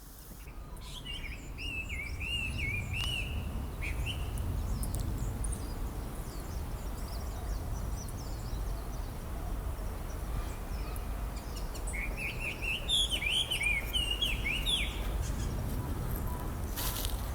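Small songbird singing in two bouts of quick, varied chirping and warbling notes, the first about a second in and the second about twelve seconds in, over a steady low rumble.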